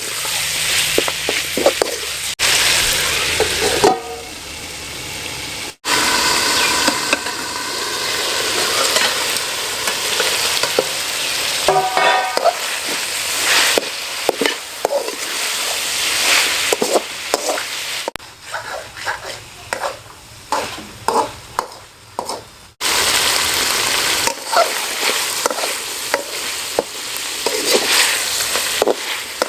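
Spiced masala for chicken fry sizzling in hot oil in a pan while it is stirred, with scattered clicks and scrapes of the stirring spoon. The sizzle drops and returns abruptly several times and is quieter for a few seconds past the middle.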